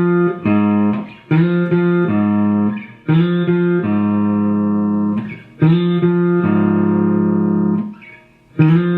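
Guitar tuned down to drop D-flat, playing a riff slowly with single notes and dyads on the low strings, each left ringing for one to two and a half seconds before the next is struck; about five notes in all.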